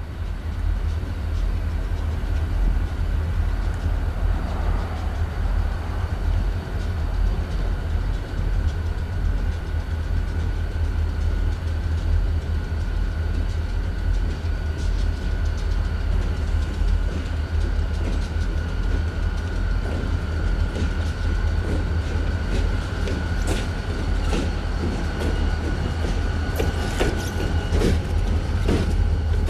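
Diesel freight locomotives approaching and rolling past at close range: a steady deep engine rumble, with wheels clicking over the rail joints more and more often in the last several seconds as the lead unit passes.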